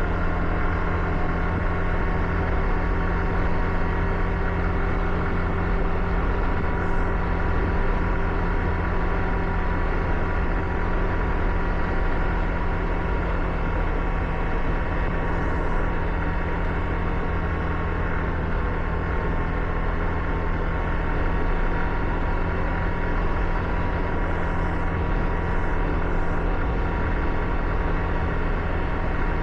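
Car driving at a steady speed: a constant engine hum with road noise from tyres on a wet road.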